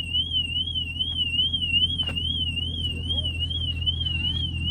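Car alarm sounding a steady, rapid up-and-down warble, over a steady low hum.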